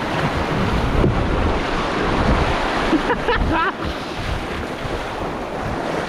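Steady rush of river water close to the microphone, with wind noise on the mic. A couple of short, wavering pitched calls come just after the midpoint.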